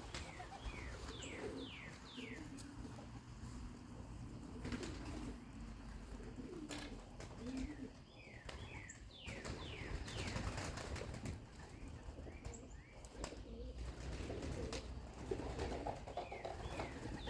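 Young pigeons cooing at a loft, with wings flapping now and then. Short falling chirps come in little runs over the cooing, and there are a few sharp clicks.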